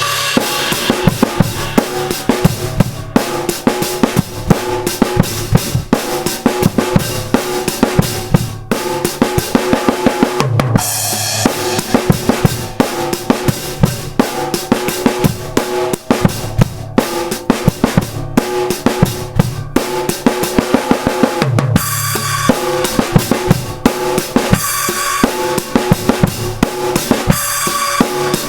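Drum kit played continuously, bass drum, snare and cymbal strokes in a steady groove, over pitched instruments with low sliding bass notes: band music.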